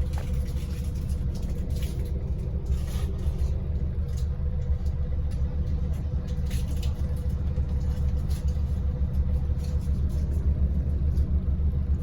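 Inside a moving Scania N94UD Omnidekka double-decker bus: a steady low rumble from the engine and road, with a thin steady hum and occasional light rattles and clicks from the bodywork.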